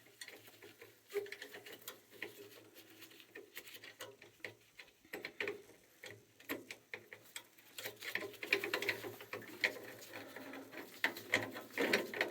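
Irregular small clicks and taps of hands and tools on the metal parts of an oil burner's nozzle assembly as it is fitted back together. They come thicker in the second half, over a faint steady low hum.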